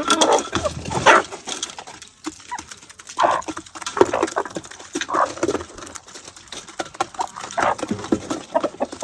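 Farm animals calling: several short calls a second or two apart, among scattered clicks and rustling.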